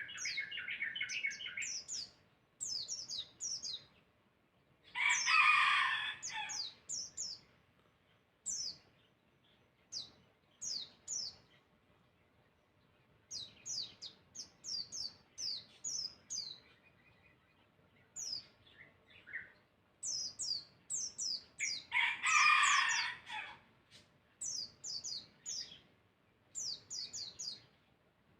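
Songbird singing in runs of short, high, quickly falling chirps, repeated over and over with short pauses, a dense chatter in the first two seconds. Twice, about 5 and 22 seconds in, a louder, harsher call lasting about a second and a half stands out.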